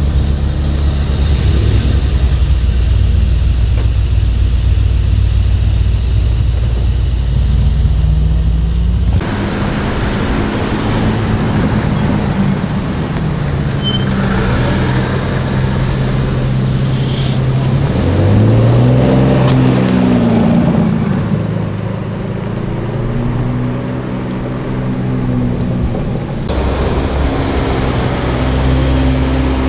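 Sports car engines running in street traffic, low and steady, with the sound changing abruptly about nine seconds in and again near the end. About two-thirds of the way through, one engine revs up and back down.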